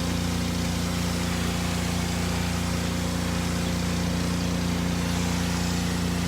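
Car engine idling steadily, an even low hum.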